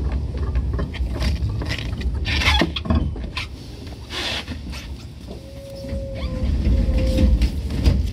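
Running noise of a Tokyu 8500 series electric train: a steady low rumble with scattered clicks from the wheels and track, easing off in the middle and building up again toward the end. Two short hisses come a few seconds in, and a faint steady whine sounds in the second half.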